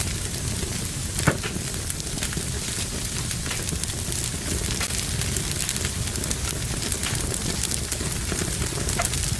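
Fire burning in a fireplace, crackling steadily with many small snaps and one louder pop about a second in.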